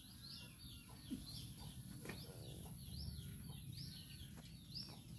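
Small birds chirping in the background: a steady string of short, high chirps, two or three a second, over faint outdoor background noise.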